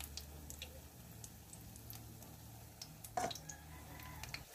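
Snail omelette batter frying in hot oil in a wok: faint crackling with scattered small ticks and pops, over a low steady hum. One louder click about three seconds in.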